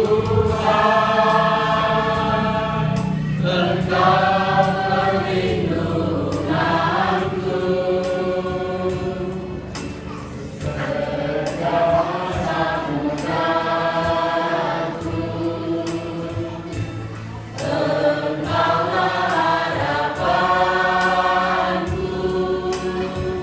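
Church choir of elderly singers singing together in long held notes, phrase after phrase.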